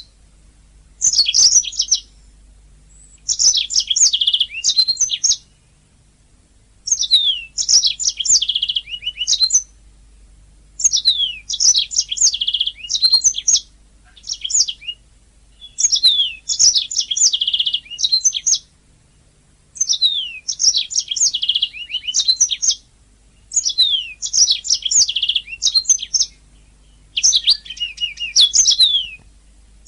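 Domestic canary singing: about eight phrases of rapid high trills and quick falling whistled sweeps, each two to three seconds long, separated by short pauses.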